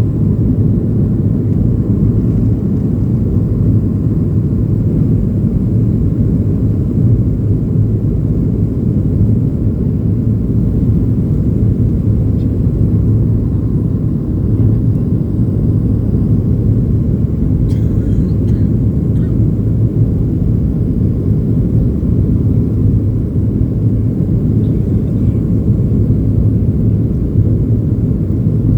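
Steady low rumble of a Boeing 737-800's CFM56-7B jet engines and airflow, heard from inside the passenger cabin, unchanging in level.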